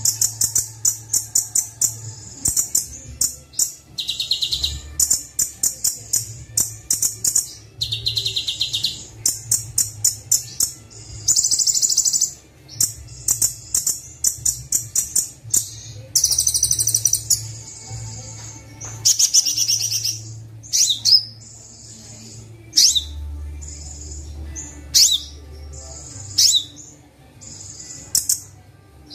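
Recorded sunbird song (Kolibri Wulung): fast high trills and chirped phrases in quick repeated bursts, with several sharp downward whistles near the end. A low steady hum runs underneath.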